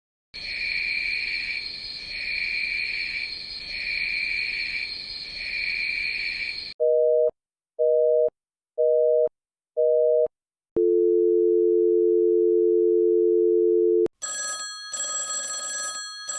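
A run of separate telephone sound effects: a high electronic tone pulsing four times, then a busy signal of four short beeps about one a second, then a steady dial tone held for about three seconds, then a telephone ringing in short bursts near the end.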